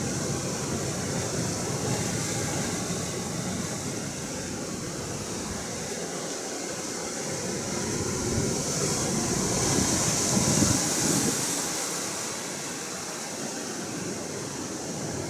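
Atlantic Ocean surf: a steady wash of waves that swells to a louder breaking rush about ten seconds in, then eases back.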